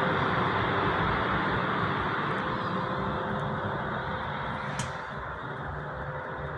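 Motor vehicle noise: a steady rumble and hiss that slowly fades, with a single sharp click near the end.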